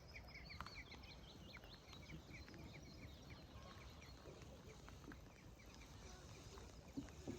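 Faint small birds chirping in quick, repeated series, busiest at first and then thinning out, with a couple of soft knocks near the end.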